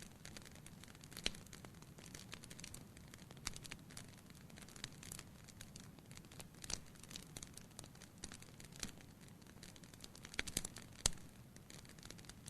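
Wood fire crackling, with irregular sharp pops and snaps over a soft steady background; the loudest pop comes near the end.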